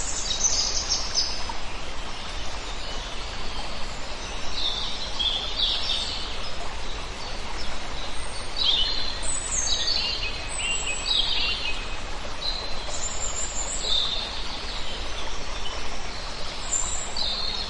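A flock of small birds chirping: many short, high calls, often in quick runs, overlapping throughout, over a steady low background noise.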